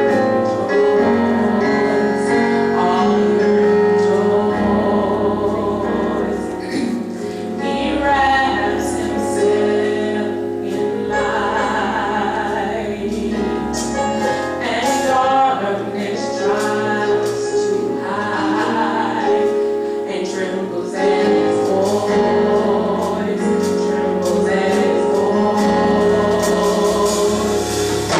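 Gospel choir singing with instrumental accompaniment, the voices holding wavering sustained notes.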